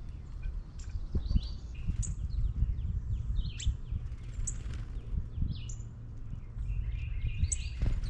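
Small birds chirping, with short sharp chirps repeating every second or so over a steady low outdoor rumble, and a short thump near the end.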